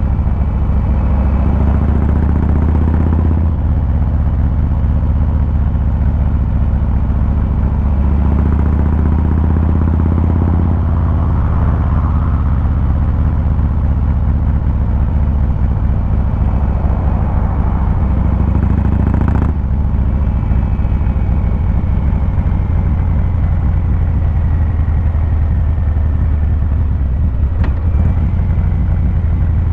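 Milwaukee-Eight 114 V-twin of a 2023 Harley-Davidson Fat Boy running under way, heard through its exhaust. Its speed steps up and down a few times with throttle and gear changes, most sharply about twenty seconds in.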